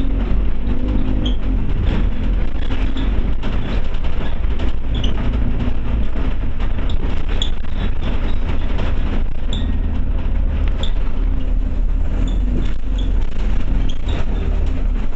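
Inside a Scania OmniCity bus on the move: the diesel engine running with its pitch rising and falling as it pulls, over road noise and small rattles and squeaks from the bodywork.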